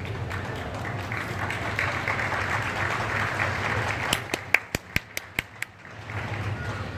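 Spectators' applause and crowd noise in an indoor badminton arena. About four seconds in, this gives way to a quick run of about eight sharp, evenly spaced claps, roughly five a second.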